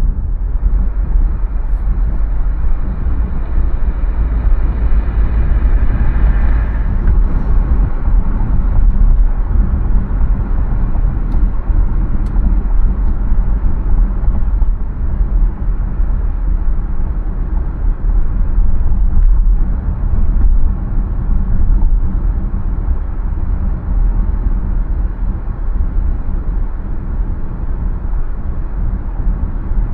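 Car driving on city streets: steady road and engine rumble, heaviest in the low end. A higher whine swells and stops about seven seconds in.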